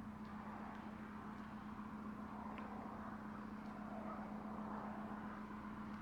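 An electric appliance running with a steady hum and an even whir of fan noise; it switched on just before and cuts off shortly after.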